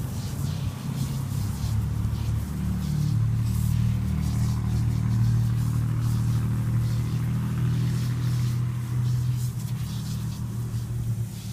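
A motor vehicle's engine running with a low steady hum that swells from about two seconds in and fades near the end, over the faint hiss and splatter of a garden hose spraying water.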